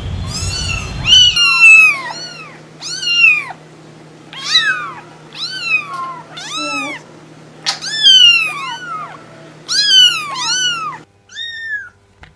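Cat meowing over and over: a rapid run of short, high-pitched meows, each rising then falling in pitch, some overlapping. They break off about eleven seconds in, and one last meow follows.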